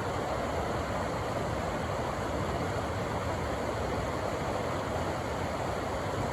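River water rushing steadily over rocks, an unbroken even wash with no pauses or single splashes.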